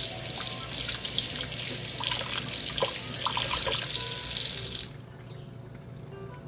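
Kitchen tap running into a sink, water splashing steadily, then turned off about five seconds in.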